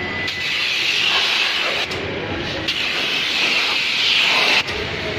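Steady hissing spray from a pressure washer, starting just after the beginning with a couple of brief breaks, then cutting off suddenly near the end.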